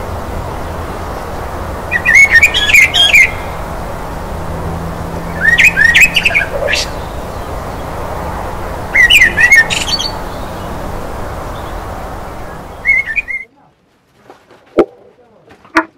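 A bird calling in four short bursts of quick chirps a few seconds apart, over a steady outdoor hiss and hum. The outdoor sound cuts off suddenly near the end, leaving a quiet room with a couple of faint clicks.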